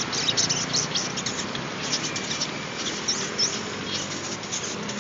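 Sunbird singing a rapid run of short, high, scratchy chirps and trills, steady throughout, over a faint background hiss.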